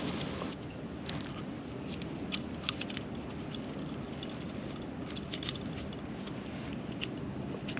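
Scattered light clicks and small metallic clinks, irregular and a few a second at most, over a steady low background noise: tools or parts being handled.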